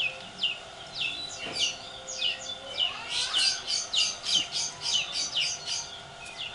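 Small bird chirping in a series of short, high notes that each drop in pitch, coming faster in the middle of the stretch.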